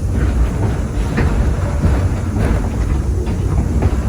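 Passenger train rolling along the track, heard from aboard: a steady low rumble of the cars with irregular clicks and clacks from the wheels on the rail.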